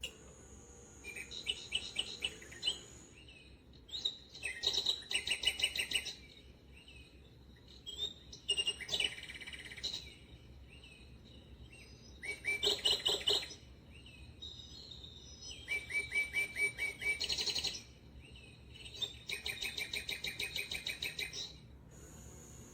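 Bird song in six phrases of rapid, evenly repeated high chirps, each one to three seconds long, with short pauses between.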